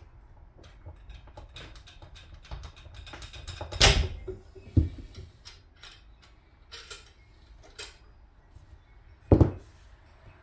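Wrench and metal parts clicking and knocking against an outboard's gear housing during hand-tool work: a run of light clicks with three sharp, louder knocks, about four, five and nine seconds in.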